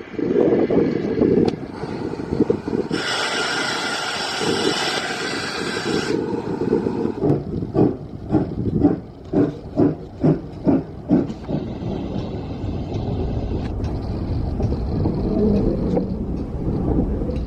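Steam locomotive at a heritage railway: a loud hiss for about three seconds, then a run of exhaust chuffs that quicken as it pulls away, over a steady low rumble.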